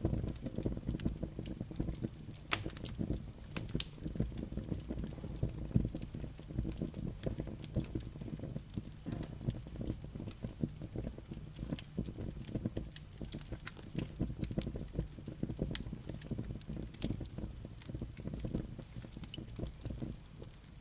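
Wood fire burning in a fireplace: a low steady rumble of flames with frequent sharp crackles and pops from the burning logs and embers.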